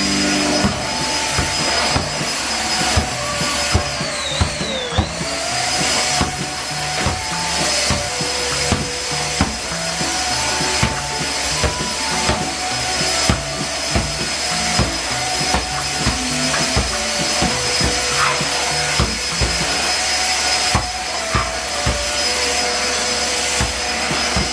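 JML handheld vacuum cleaner's motor running with a high steady whine, its pitch sagging briefly about four seconds in before recovering, then switched off at the end and winding down. Background music with a steady beat plays throughout.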